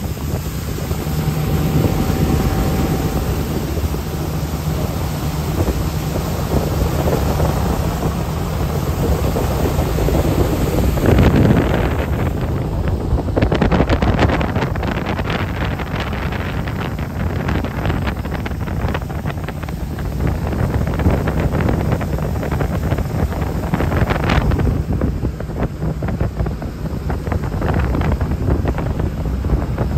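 Jet boat running on the water: a steady engine drone under heavy wind buffeting on the microphone and rushing water. From about eleven seconds in the sound turns rougher and choppier.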